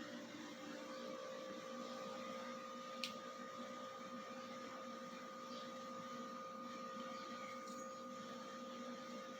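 Steady machine hum holding a few even tones, a higher tone joining about a second in, with one sharp click about three seconds in.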